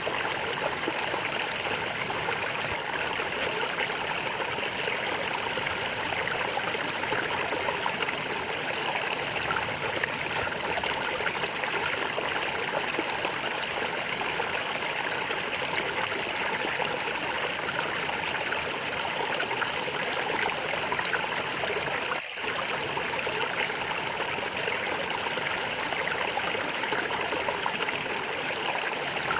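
Small stream of water flowing and gurgling steadily, with a split-second dropout about two-thirds of the way through.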